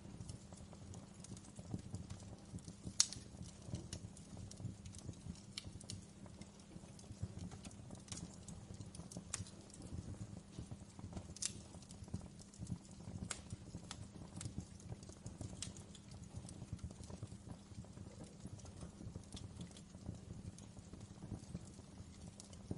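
Wood fire crackling in a fireplace: irregular sharp pops and snaps over a low steady rumble, with the loudest pop about three seconds in.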